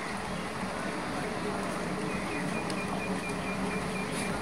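Heavy rain falling steadily, with the low hum of an approaching EMU local train beneath it. In the second half a faint, high pulsing chirp repeats about four times a second.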